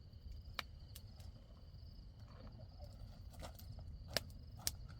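Insects trilling steadily at a high pitch, with a few sharp clicks or snaps scattered through.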